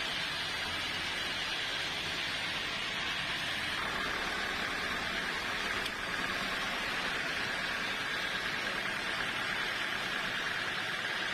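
Sawmill saw running with a steady hissing machine noise whose pitch drops slightly about four seconds in.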